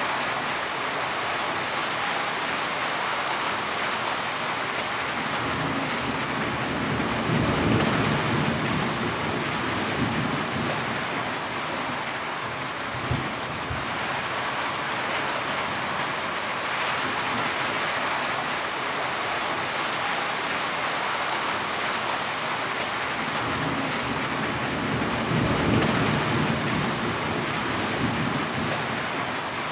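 Steady heavy rain hissing evenly, with low rumbles of thunder twice, about a quarter of the way in and again near the end.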